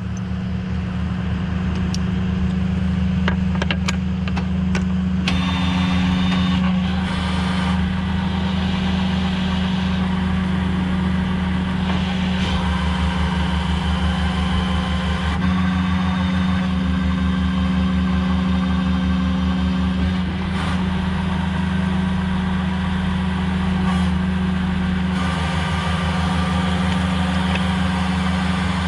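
Tow truck engine running steadily at idle, with a few light clicks a few seconds in.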